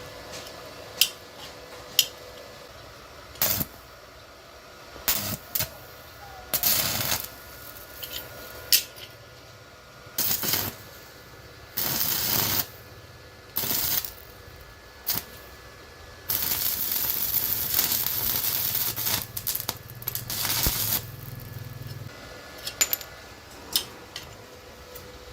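Small metal objects clinking and tapping, with several hissing bursts of about a second each and one longer hiss lasting about six seconds.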